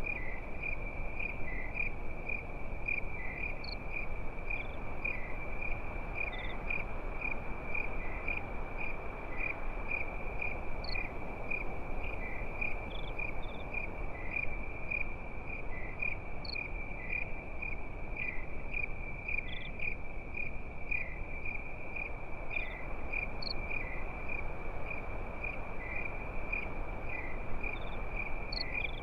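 Crickets chirping in a steady, fast-pulsing trill, with fainter, higher chirps from other insects and a low, even hiss underneath.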